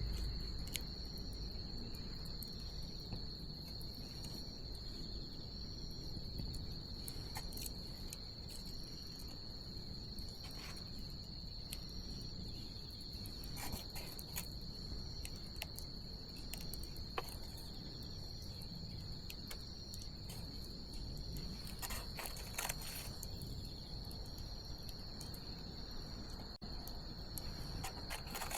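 Wood bonfire crackling, with scattered sharp pops that come thicker about two-thirds of the way in, over a low steady rumble of the fire. Behind it runs a steady high trill of insects.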